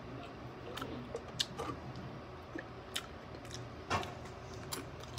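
Close-up chewing of fried squid: scattered sharp, crisp crunches and clicks, with one louder crunch about four seconds in.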